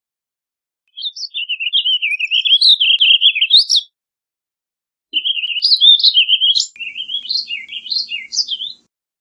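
Warbling vireo singing: two long, rambling warbled phrases of quick rising and falling notes, the second starting about a second after the first ends.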